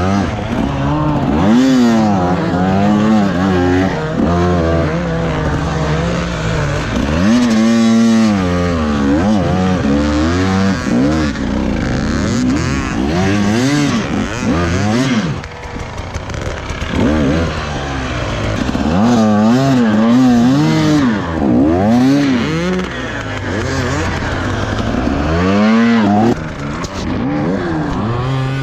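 Dirt bike engine being ridden on a trail, its revs climbing and dropping again and again as the rider works the throttle and gears.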